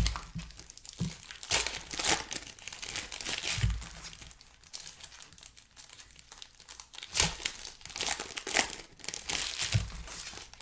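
Plastic trading-card pack wrappers crinkling and crumpling in the hands in irregular bursts, with a quieter stretch in the middle.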